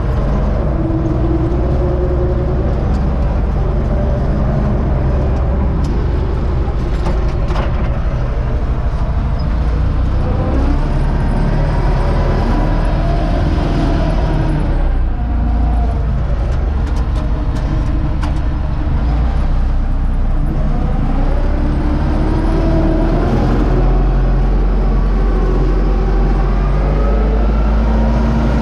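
Universal U650 tractor's diesel engine running steadily under load, pulling a SUP-21 grain seed drill, its note rising and falling slightly.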